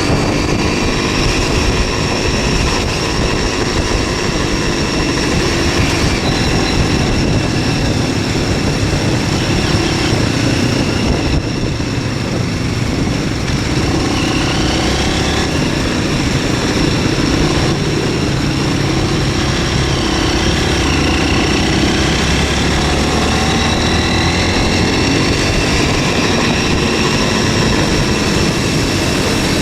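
MZ 125 SX scrambler's single-cylinder engine running under way, its revs rising and falling, with a brief dip about halfway through. Wind and road noise rumble underneath.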